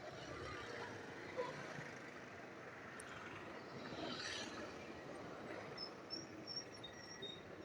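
Faint, steady road and traffic noise, with a few short high chirps near the end.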